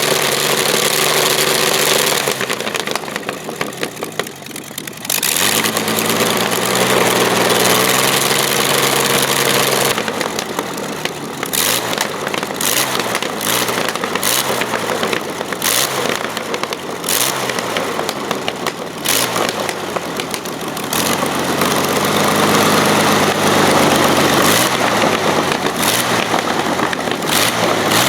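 Avia M 137 six-cylinder air-cooled aircraft engine running, its speed dropping and rising several times as the throttle is worked. A run of sharp crackles sounds through the middle.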